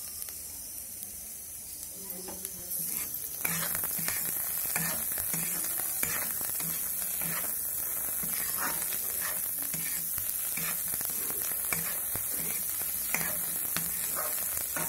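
Bamboo shoot strips frying in oil in an iron kadai, with a steady sizzle. From about three seconds in, a metal spatula scrapes and stirs them in rhythmic strokes, roughly three every two seconds.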